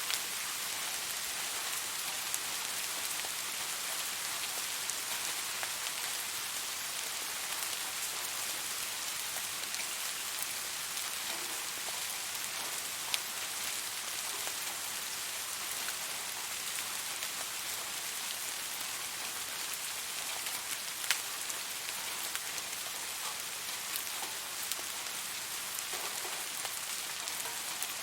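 Steady rain falling on a surface, an even hiss with scattered sharper drop clicks, a few louder ones standing out.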